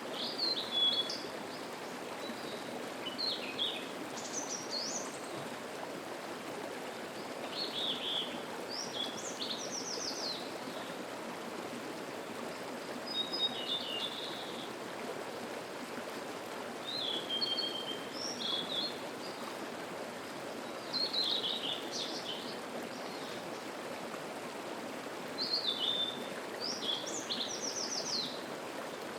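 Mountain stream running steadily, with a songbird singing short, partly trilled phrases about every four seconds over it.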